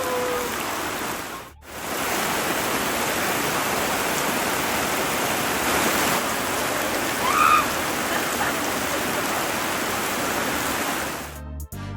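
Steady rain falling, an even hiss of water noise, broken briefly about a second and a half in. Music comes in near the end.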